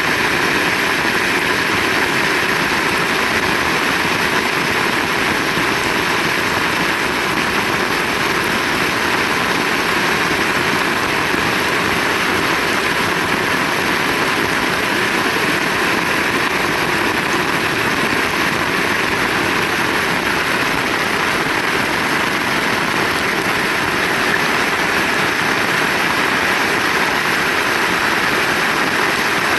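Heavy rain falling steadily, an even downpour with no thunder claps.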